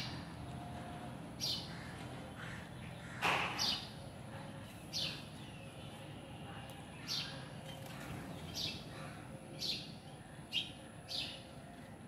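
Small birds chirping: short, high, downward chirps at about one a second, with one louder call a little over three seconds in.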